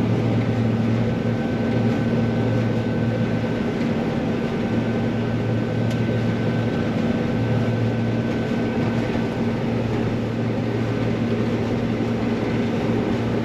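Combine harvester running steadily while harvesting soybeans, an even engine and machinery hum with a faint high whine that fades out near the end.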